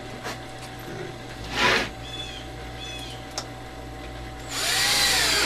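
Drill/driver driving deck screws into pine: a short burst about a second and a half in, then a longer run near the end, the motor speeding up and slowing down.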